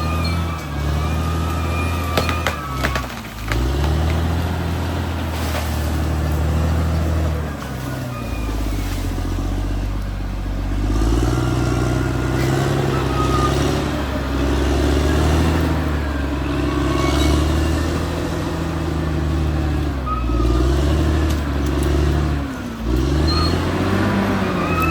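Caterpillar D6R XL bulldozer's diesel engine working under changing load. Its pitch dips and recovers several times as it lugs and then picks up again. A high squealing whine comes and goes, with a few clanks.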